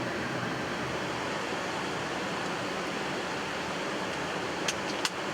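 Steady rush of airflow and ventilation noise in the flight deck of a Boeing 777-300ER on final approach, with two short clicks near the end.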